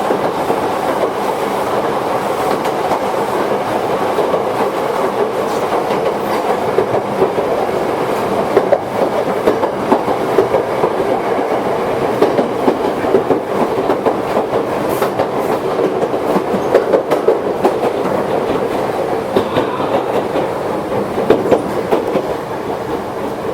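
Toyohashi Railway 1800 series electric train, a former Tokyu car, running at speed and heard from inside the car: a steady rumble of wheels on rail with repeated irregular clicks and clatter over the rail joints.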